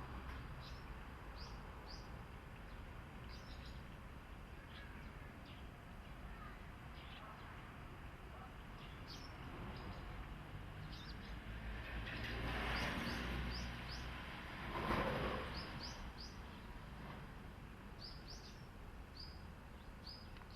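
Small birds chirping, short high chirps repeating again and again, over a low steady rumble. Past the middle a broad swell of noise builds, peaking sharply about three-quarters of the way through before fading.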